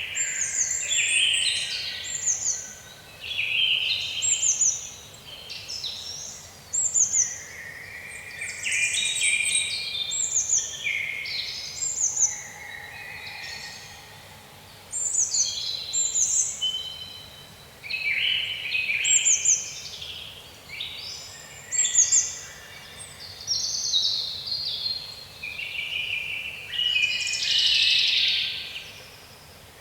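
Songbirds singing and chirping, many short rapid calls and downslurred whistles overlapping, with a brief lull near the middle.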